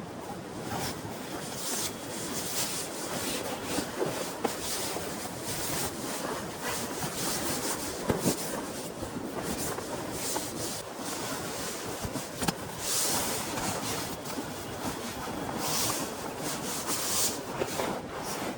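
Heavy rain falling steadily, with frequent close rustling, rubbing and small sharp ticks over it.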